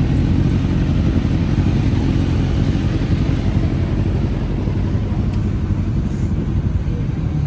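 Sport motorcycle on the move: a steady, loud low rumble of engine and riding noise with no distinct revs.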